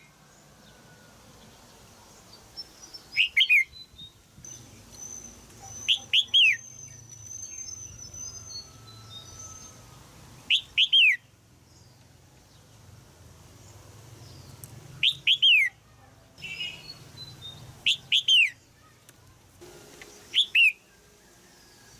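Red-whiskered bulbul giving sharp, downslurred 'jiak' calls in quick groups of two or three, repeated every few seconds. Faint high thin notes sound between some of the groups.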